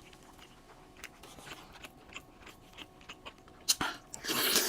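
Close-miked chewing and soft mouth clicks of a person eating, with a sharp click about three and a half seconds in and a brief louder crunchy noise at the end.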